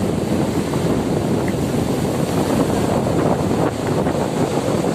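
Strong wind blowing over the microphone on top of heavy storm surf breaking and rushing on the shore, a dense steady rumble.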